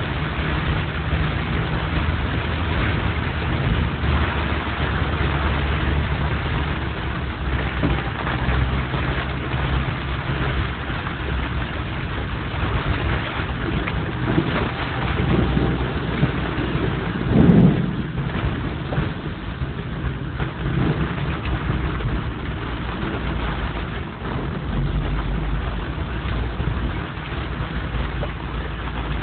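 Traffic on a rain-soaked city avenue: vehicle engines running with the steady hiss of rain and wet road noise. A louder swell about two-thirds of the way through, like a heavier vehicle passing close.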